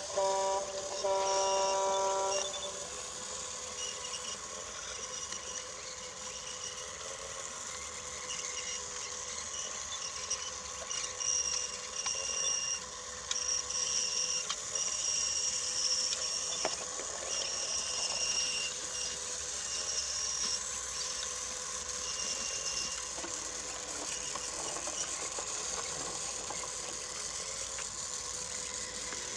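Small electric motor and gears of a battery-powered Brio toy train whirring steadily as it runs along wooden track, with irregular light clicks and rattles. In the first two seconds a brief pitched tone, like the toy's built-in sound effect, sounds over it.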